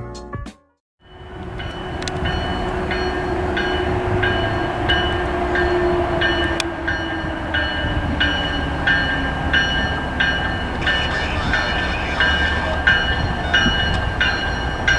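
Commuter train running through the station: a steady low rumble with an engine tone that slowly falls in pitch. A bell rings over it about one and a half times a second, a warning bell like a locomotive or crossing bell. The sound starts after a brief silence.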